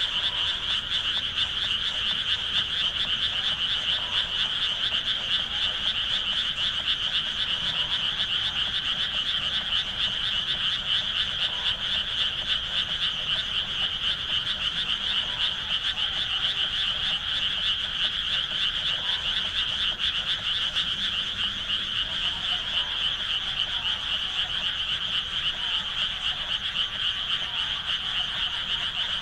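A dense chorus of many frogs calling together in rice paddies. It is a steady, unbroken wall of rapid croaking that does not pause.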